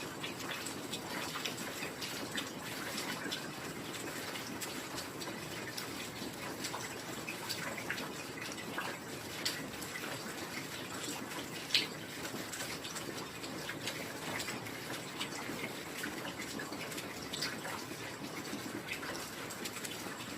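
Heavy rain falling steadily, with many individual drops ticking through the hiss; one sharper drop stands out about twelve seconds in.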